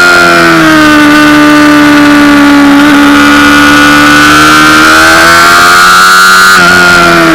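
Honda CBR600RR's inline-four engine running hard at high revs, very loud on the bike's onboard camera. The pitch dips slightly, climbs slowly, then steps sharply near the end and starts to fall.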